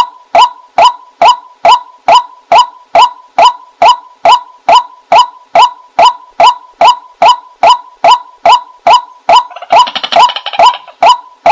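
White-breasted waterhen 'kwak' call played as a decoy, one short loud note repeated evenly a little over twice a second. About ten seconds in, a brief rough chattering sound overlaps the calls.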